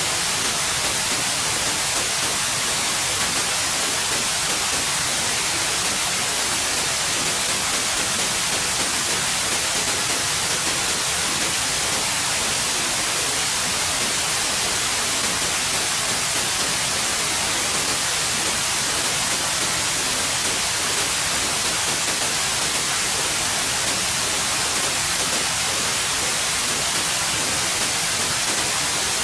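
Steady white noise: an even, unchanging hiss, bright in the high end.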